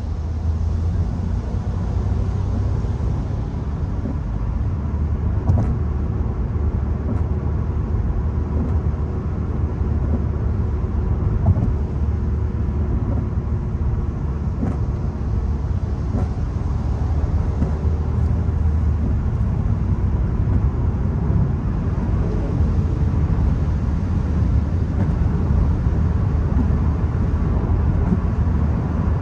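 VW Golf 1.0 TSI's three-cylinder turbo petrol engine and tyre noise while the car is driven: a steady low rumble with an engine tone that drifts gently up and down, and a few faint ticks.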